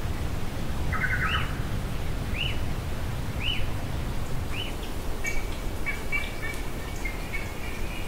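Forest birds calling. About a second in comes a short burst of chattering notes, then a short rising-and-falling note about once a second, and from about five seconds a rapid, steady trill. A steady low rumble runs underneath.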